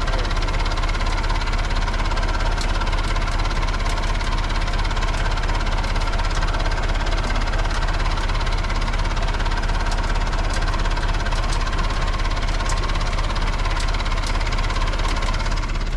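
Backhoe's diesel engine idling steadily.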